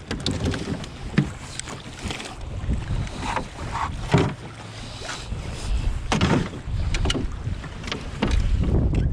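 Wind buffeting the microphone on a canoe on open water, a low rumble that grows louder near the end, with scattered knocks and clicks throughout.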